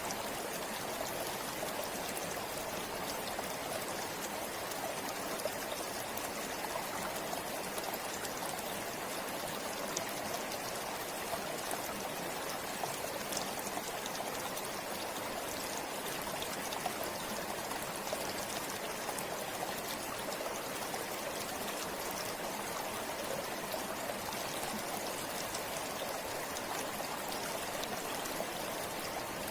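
Forest river or stream flowing steadily over stones, a constant rushing with small splashes and trickles throughout.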